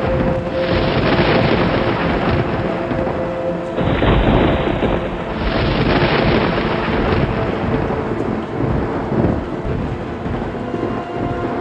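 Thunderstorm: steady rain with rolling thunder, and a heavier low rumble about four seconds in.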